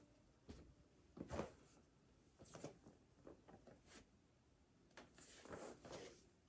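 Faint rustling of clothing and soft thumps of a person doing repeated full prostration bows, as knees and hands meet the floor. The loudest thump comes about a second in, with a longer rustle near the end.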